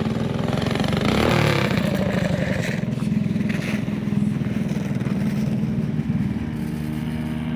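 Minibike engine running with a fast, even firing pulse, getting louder and revving up about a second in, then settling to a steadier running note near the end.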